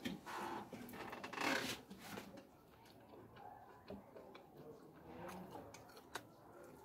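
Close-up eating sounds: a person chewing mutton and rice with wet smacking of the lips, loudest in the first two seconds. After that come softer small clicks and rustles as food is picked up by hand.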